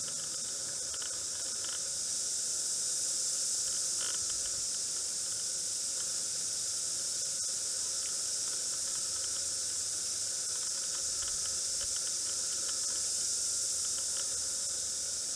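A chorus of cicadas singing at night: a dense, steady, high-pitched hiss with no breaks. For these day-active insects this is an unusual night-time chorus.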